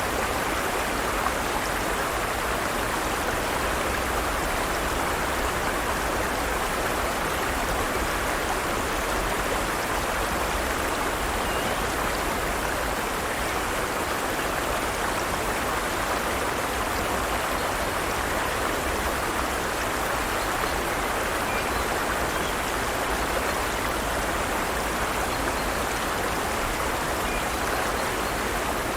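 Forest stream running over rocks, a steady rush of water.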